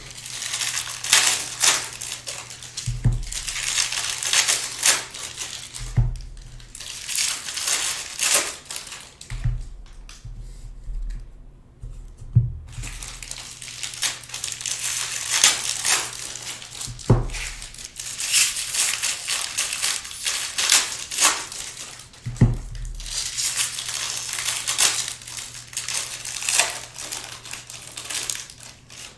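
Plastic wrapping crinkling and crumpling as it is handled, in uneven bursts, with a dull thump every few seconds.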